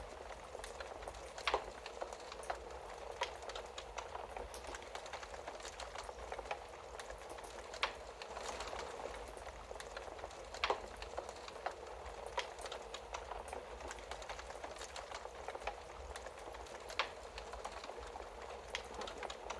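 Wood fire crackling in a fireplace: a steady hiss with scattered sharp pops and snaps, a few of them louder than the rest, over a faint low hum.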